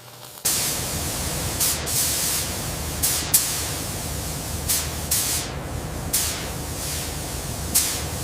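Welding arc on a steel chassis seam, crackling and hissing steadily from about half a second in, with frequent sharper pops over a low buzz.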